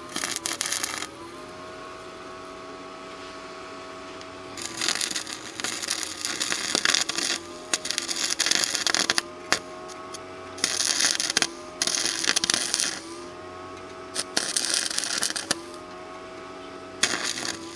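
Stick welding with a 160-amp IGBT inverter stick welder: the arc crackles and sizzles in several runs of a few seconds each, with short breaks between. Under it the welder's steady electrical whine shifts in pitch each time the arc strikes or breaks.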